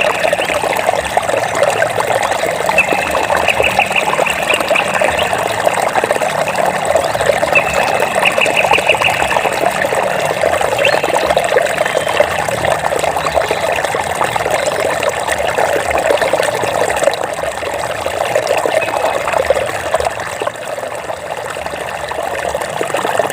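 Water trickling and babbling steadily, with a short, high, rapidly pulsing trill heard twice in the first half.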